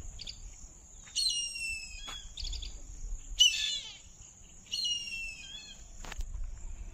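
A bird calling: three loud, drawn-out, falling calls with shorter chirps between them, over a steady high-pitched insect drone.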